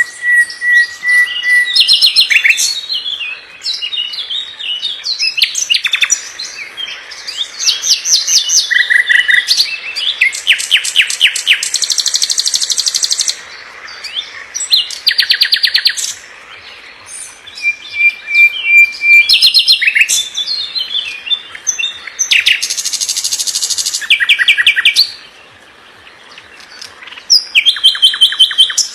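Songbird singing a fast, varied song: phrases of a few seconds each, built of rapid trills and quick repeated notes, with short pauses between them. It opens with a short held whistle and has another about two-thirds of the way through.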